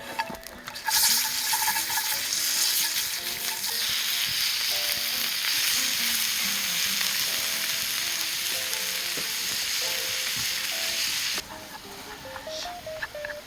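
Food sizzling loudly as it fries on hot metal. The sizzle starts about a second in and cuts off abruptly near the end. Quiet background music plays underneath.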